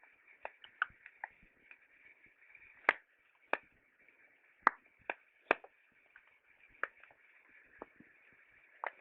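Wood fire crackling: irregular sharp pops and snaps over a steady faint high hiss, the loudest pops about three seconds in and around the middle.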